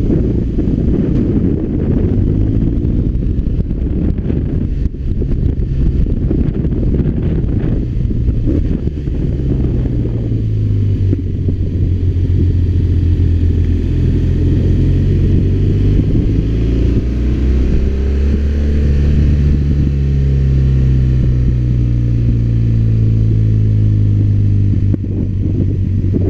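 BMW R1200RT motorcycle's boxer-twin engine running under way, its pitch rising and falling with the throttle and gear changes.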